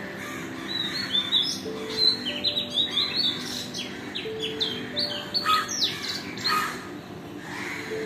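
Small birds chirping in an early-morning chorus: many quick, high notes that sweep downward, busiest through the middle seconds.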